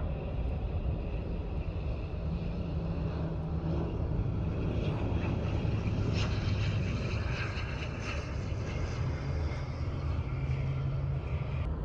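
Jet aircraft engines making a steady rumble with a faint higher whine, swelling a little around the middle.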